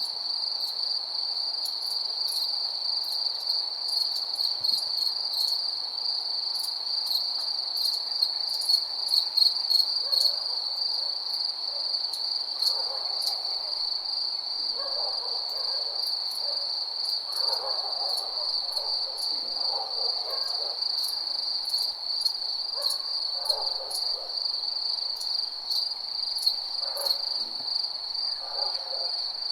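Crickets chirping in a steady, high, pulsing chorus, with short lower calls from other night animals coming and going over it.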